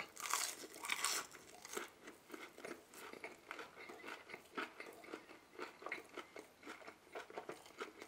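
Crunching bite into a fried chicken nugget about a second in, then steady chewing close to the microphone.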